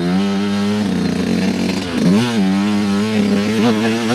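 Dirt bike engine running under throttle on a trail ride. The revs hold steady, drop off briefly about two seconds in and pick back up, then wobble with a few quick blips near the end.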